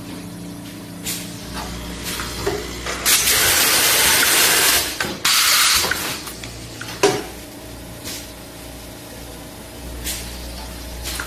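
Automatic vacuum tea-packing machine running through its cycle: sharp mechanical clicks over a low steady hum, with loud bursts of air hissing, the longest lasting about two seconds a few seconds in.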